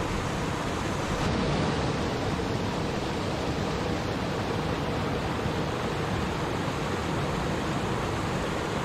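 Water in a stream flowing and babbling steadily, an even rushing sound with no breaks.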